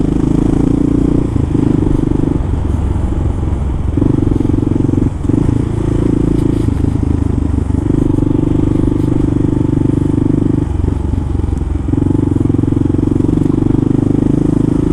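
Kawasaki KLR650's single-cylinder engine running on the move, a steady drone that eases off and picks up again every couple of seconds.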